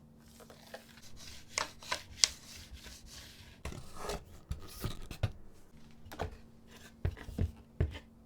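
Parts being handled and fitted together by hand during assembly: irregular knocks, taps and clicks with rubbing between them, and heavier thuds in the second half.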